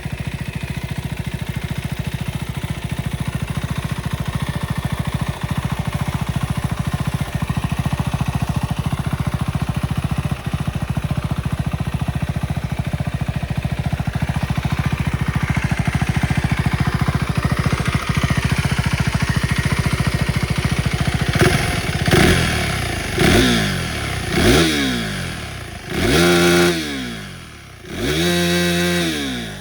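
KTM 390 SMC R's single-cylinder engine idling steadily through its stock exhaust. From about 21 seconds in it is revved in five quick throttle blips, the last two held longer before falling back.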